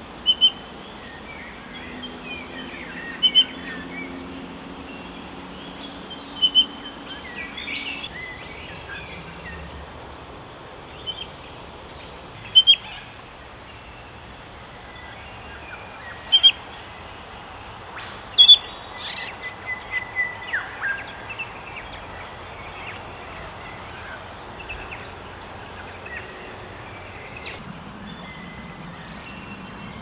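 Birds calling, among them recently fledged chicks: sharp, short calls every three or four seconds, with a run of softer chirps about twenty seconds in.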